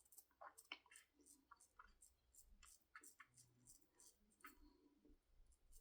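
Faint, irregular crisp clicks of a shavette's blade cutting through several days' beard stubble as it is drawn down the face.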